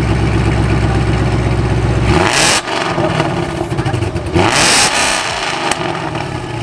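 Ford Shelby GT500's supercharged V8 idling steadily, then blipped twice with short bursts of rushing exhaust noise.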